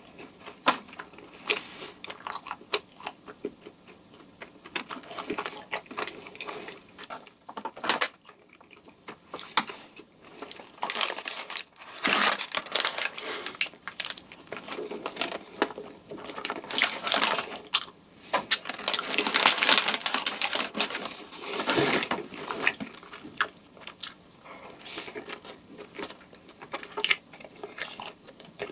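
Close-miked eating sounds: bites into soft cream-filled donuts, with wet chewing and smacking in irregular bursts, busiest about halfway through.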